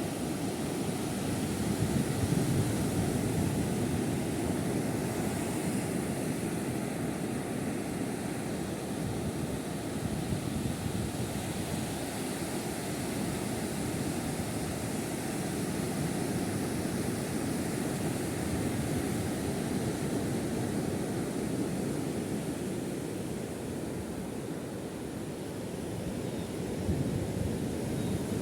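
Steady low rushing noise that swells and eases slowly in level, with no clear pitch or distinct events.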